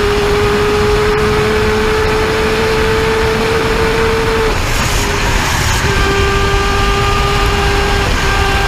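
Sport motorcycle engine held at high, nearly steady revs under loud rushing noise. Its note drops out about four and a half seconds in and comes back slightly lower a second and a half later.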